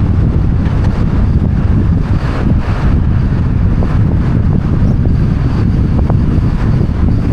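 Wind buffeting the microphones of a roof-mounted 360° camera on a moving car, a loud steady low rumble mixed with road noise.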